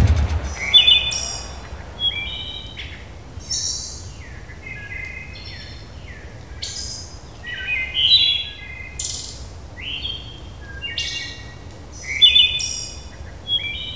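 A bird singing a string of short, varied chirps and whistles, with some harsher, scratchier notes mixed in, repeating about once a second over a faint low background hum.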